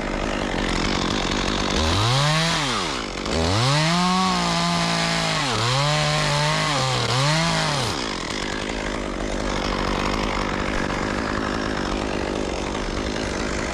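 Chainsaw engine revved up and down about four times over several seconds, then running on as a steady noise.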